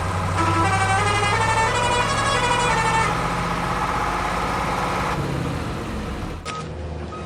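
Steady vehicle engine hum with an electronic tune of short stepped notes over it, the tune dying away about five seconds in; the sound changes abruptly shortly before the end.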